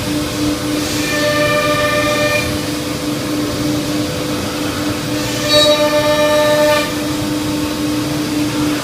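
C.R. Onsrud Panel Pro CNC router running, its spindle giving a steady whine. Twice, about a second in and again about five and a half seconds in, a set of higher tones joins the whine for a second or so.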